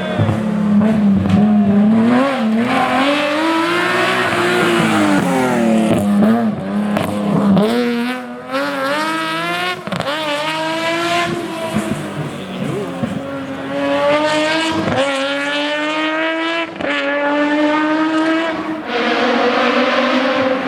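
Nissan 370Z GT+ rally car's 3.7-litre V6 engine driven hard. Its pitch climbs steeply through several upshifts, each shift dropping it back, with a rise and fall of revs early on as the car lifts and slows for a bend.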